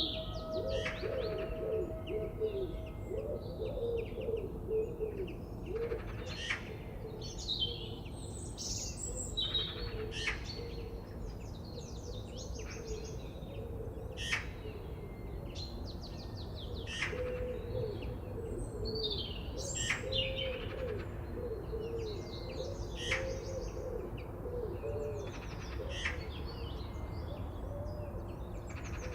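Forest birds chirping and singing: short high calls come every second or two, over a dense run of low, repeated pitched calls and a steady low background rumble.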